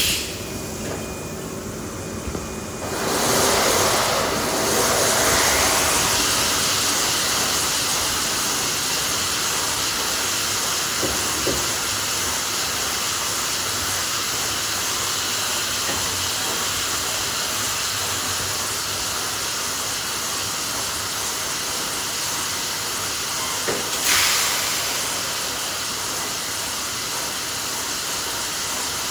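Tape-production machinery running in a factory, heard as a steady loud hiss. The hiss swells up about three seconds in and surges briefly once near the end.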